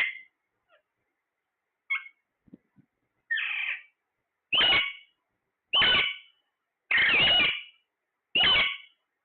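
A parrot calling: a short chirp, then a series of five loud squawks a little over a second apart. The first is softer and the fourth is drawn out longer.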